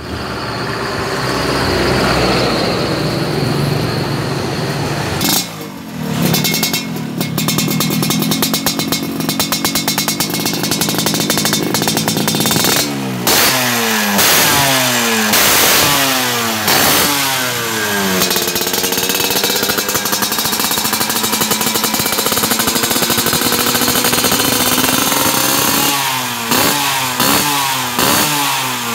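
Yamaha RX-King's single-cylinder two-stroke engine running through an aftermarket racing exhaust and being revved. A run of throttle blips about a second apart is followed by a long high rev held for several seconds, then quicker blips near the end.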